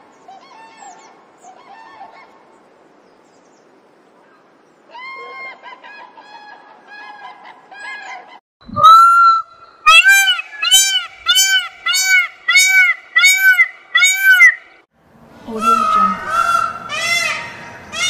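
Birds honking: faint repeated honks at first, then, after a sharp knock about halfway in, a loud run of short honking calls evenly spaced at about one and a half a second. The calls come faster and overlap near the end.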